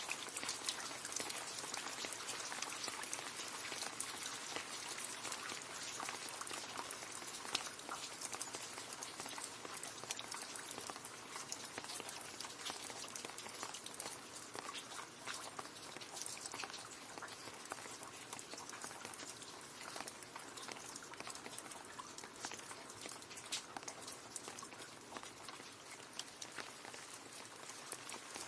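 Steady rain splashing into a puddle: a dense patter of drops with a scattering of louder individual splashes.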